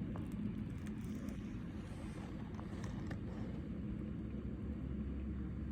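Steady low rumble of a car driving, heard from inside the closed cabin, with a few faint ticks.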